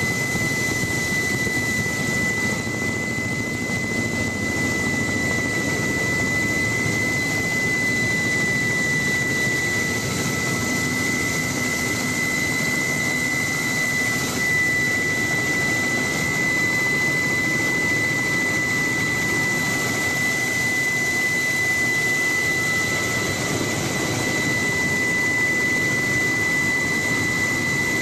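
Helicopter in flight, heard from on board: a steady engine and rotor din with a constant high whine running through it.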